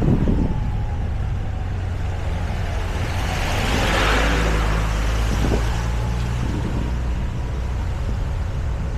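Motorbike engine running steadily under way, with wind on the microphone; a broad swell of rushing noise rises and fades about halfway through.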